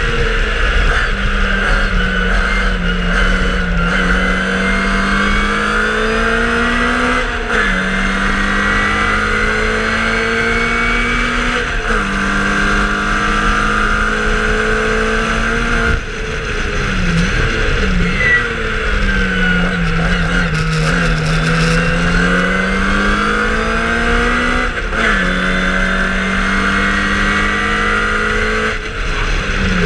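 1963 MG Midget Mk1's BMC A-series four-cylinder engine at racing speed, heard from on board: the revs climb steadily under full throttle and drop sharply at each upshift, about every four to five seconds. Twice, in the middle and near the end, the note falls away and dips as the driver lifts and shifts down for a corner, then pulls back up.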